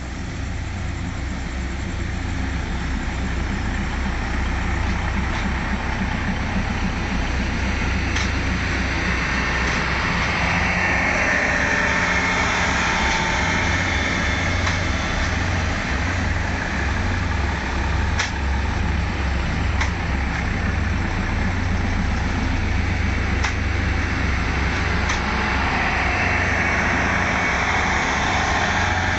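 Taiwan Railways passenger train running past close by: a steady low rumble with a broad rushing noise and a few sharp clicks, growing louder over the first few seconds.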